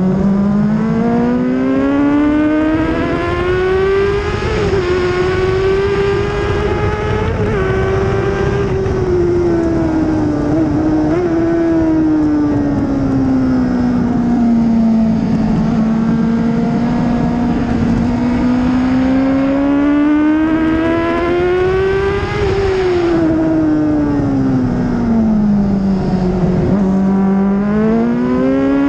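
2004 Honda CBR600RR's inline-four engine on track, heard from the bike itself. Its pitch climbs hard under acceleration over the first few seconds and holds, sinks slowly as the rider eases off, climbs again, drops, and climbs once more near the end, with a steady rush of wind noise underneath.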